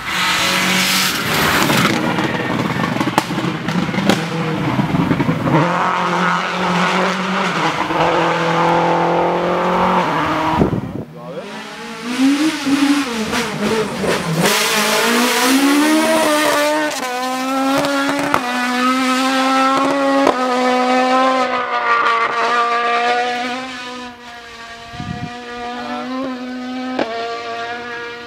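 Race car engines running hard: revving in the first part, then after a brief break about eleven seconds in, an engine climbing in pitch through the gears, dropping at each upshift.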